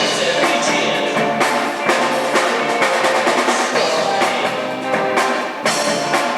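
Rock band playing live, with the drum kit prominent: snare and bass-drum hits over guitar and bass.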